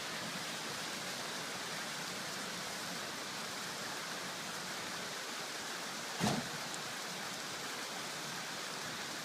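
Steady rushing hiss of outdoor background noise, with one short low thump about six seconds in.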